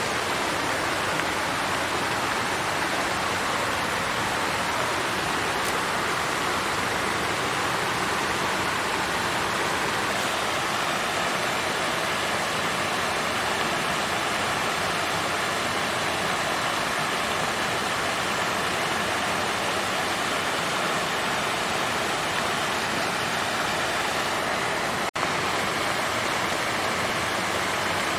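Water fountain running: a steady flow of falling, splashing water, with a split-second dropout near the end.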